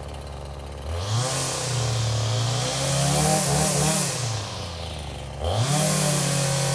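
Small two-stroke engine idling low, then revved up about a second in, dropping back around four to five seconds in, and revved up again near the end, where it holds at high speed.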